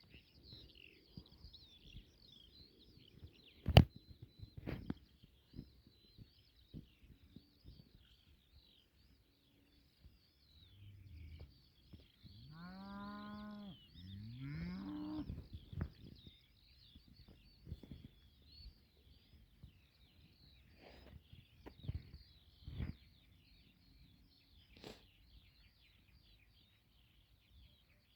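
Small birds chirping steadily, with a cow mooing twice in a row about halfway through. A few sharp knocks, the loudest about four seconds in.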